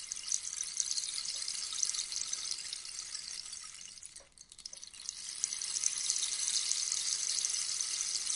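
Rainstick: a dense, rain-like trickle of pellets falling through the tube. The trickle thins out to a few last ticks about four seconds in, then picks up again.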